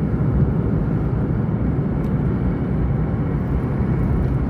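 Steady low rumble of a moving vehicle's road and engine noise, even throughout.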